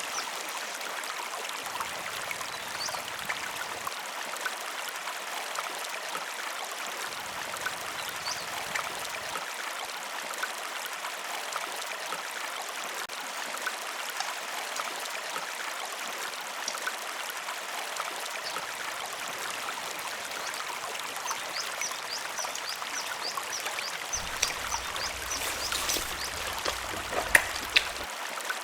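River water flowing steadily. Near the end a couple of sharp clicks stand out over it.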